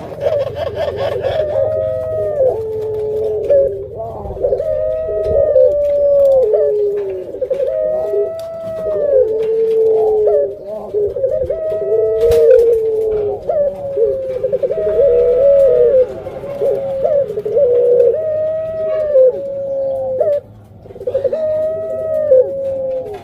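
Puter pelung doves (domestic Barbary dove breed) cooing: repeated arching coos that bend down in pitch at the end, one every second or two, often overlapping one another.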